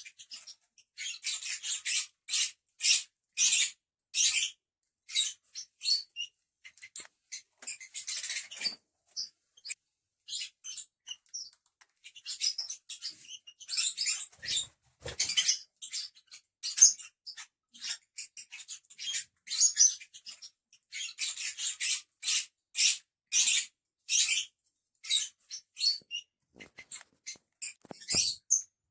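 Lovebirds chirping: several birds giving short, sharp, high-pitched chirps in quick, irregular runs, thinning out briefly about a third of the way through.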